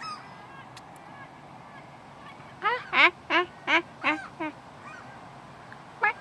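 Seagull calling: a run of about six loud yelping calls, roughly three a second, a few seconds in, and another run starting near the end.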